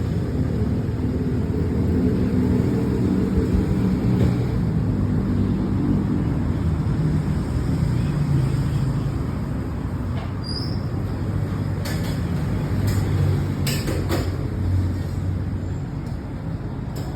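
A steady low engine-like rumble, with a few sharp clicks in the last third.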